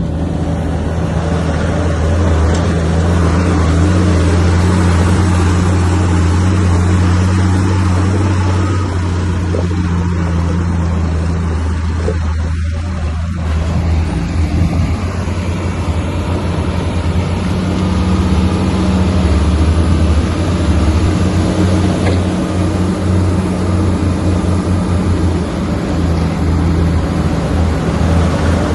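Heavy diesel engine of a Komatsu bulldozer running steadily with a deep, continuous drone that wavers a little in loudness.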